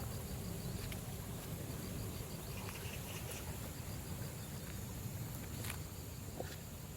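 Quiet outdoor background noise, steady and even, with a few faint clicks scattered through it.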